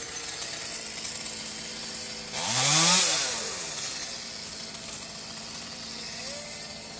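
Chainsaw idling, revved once about two and a half seconds in, its pitch rising and then dropping back to idle.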